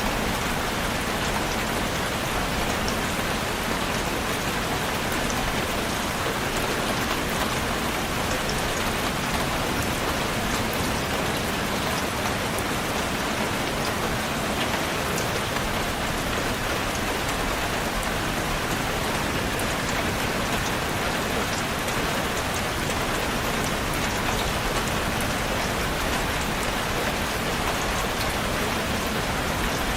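Steady, heavy rain falling on a surface, a dense even hiss with countless small drop impacts.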